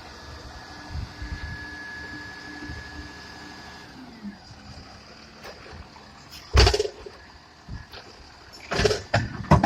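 Garbage truck working: a steady whine with low rumble stops about four seconds in, then loud bangs come twice, the second time as a cluster of several near the end.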